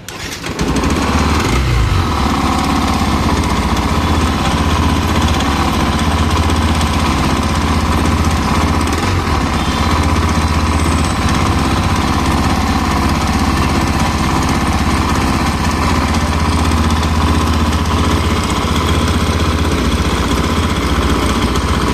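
Yamaha FZ V3 motorcycle's single-cylinder engine running steadily at idle, becoming loud about half a second in.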